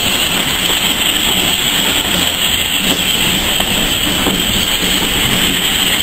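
Passenger coaches rolling past at close range: a steady noise of wheels running on the rails, with a hiss.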